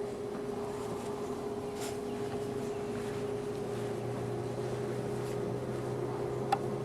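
A steady mechanical hum, like a distant engine, holding one constant tone, with a lower drone that grows stronger partway through. A single sharp click near the end.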